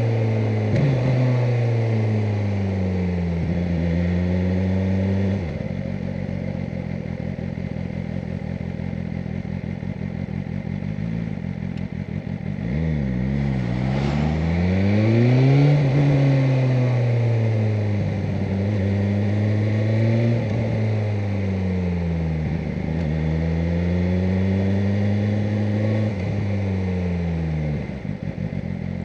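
BMW M1000R Competition's inline-four engine, its pitch rising and falling again and again as the bike speeds up and slows. It holds a steadier, lower note for several seconds before several quick rises and falls.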